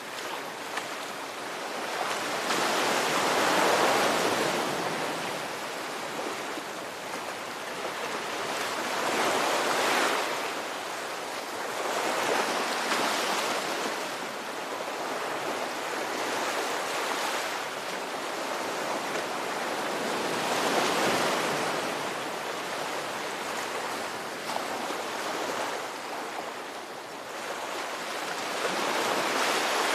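Ocean surf: waves breaking and washing in a continuous hiss that swells and fades every several seconds.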